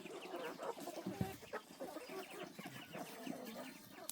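Chickens clucking, many short calls in quick succession, with a dull thump about a second in.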